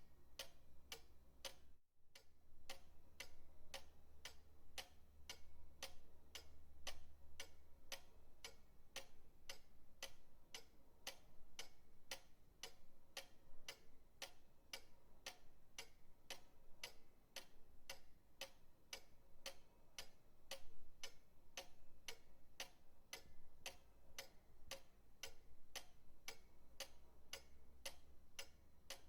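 Pendulum clock ticking steadily, about two ticks a second, over a faint low hum. The sound cuts out for a moment about two seconds in.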